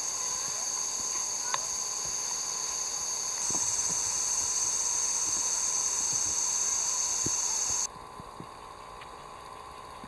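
Steady, high-pitched insect chorus of summer insects, several constant shrill tones layered together. It gets louder about a third of the way in and drops away sharply about two seconds before the end, with a few faint ticks underneath.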